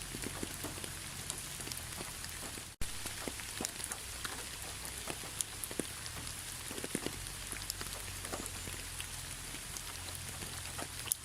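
Rain falling steadily, an even hiss with many separate drops ticking on a surface. The sound cuts out for an instant about three seconds in, then resumes unchanged.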